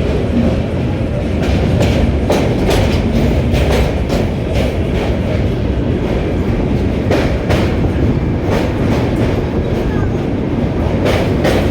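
Train running over a railway bridge: a steady heavy rumble with wheel clacks over the rail joints, often in pairs.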